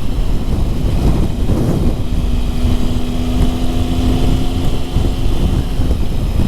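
Motorcycle engine running at steady revs under a heavy low wind rumble on the rider's microphone; the engine note holds steady for a few seconds in the middle.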